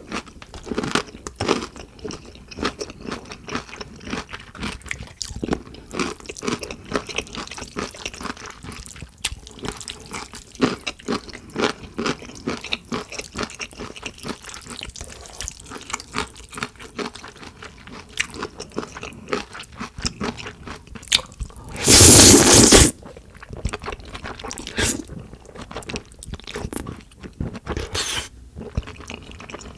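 Close-miked eating sounds: crunchy chewing of pickled yellow radish and wet chewing of jajangmyeon noodles, with many small crunches and clicks. About two-thirds of the way in there is one loud rush of noise lasting about a second.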